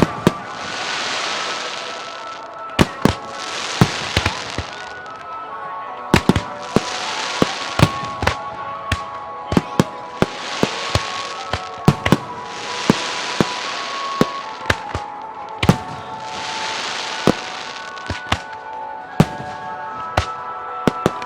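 Fireworks shells bursting in a rapid, irregular run of sharp bangs, with several hissing, crackling showers about a second long between them.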